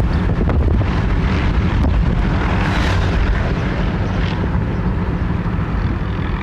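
Steady low rumble of a helicopter hovering near the power lines, mixed with wind buffeting the microphone.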